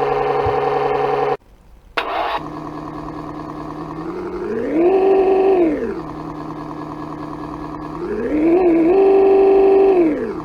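Synthesized engine sound from an RC engine sound controller played through its speaker, somewhat muffled. One sound cuts off a little over a second in. After a short pause and a click, a new engine sound starts idling steadily, then revs up and back down twice.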